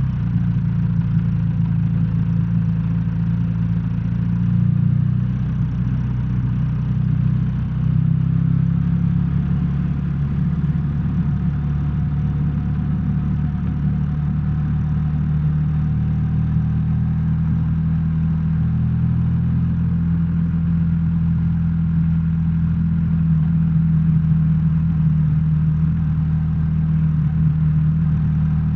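BMW R1300R's boxer-twin engine running at low, steady revs, a deep even drone with a few small shifts in pitch.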